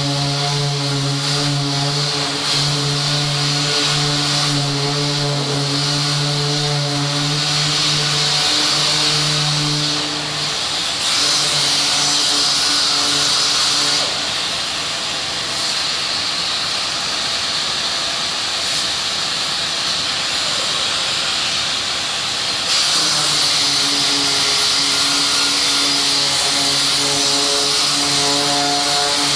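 Power sander dry-sanding body filler: a steady motor hum under a loud hiss of abrasive paper on the filler. The hum drops away about a third of the way in while the hiss shifts, then returns near the end.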